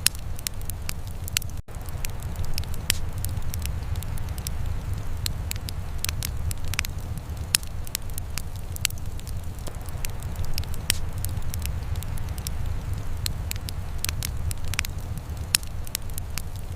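Wood fire burning in a fireplace, crackling with frequent sharp, irregular pops over a steady low rumble. A brief dropout comes just under two seconds in.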